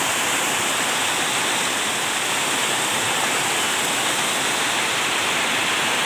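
Heavy rain falling steadily in a continuous downpour.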